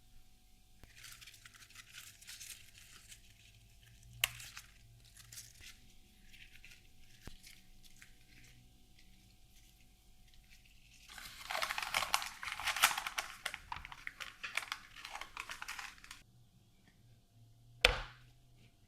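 Crinkling and rustling of something being handled, light at first and then louder for about five seconds, with two sharp clicks, one about four seconds in and one near the end.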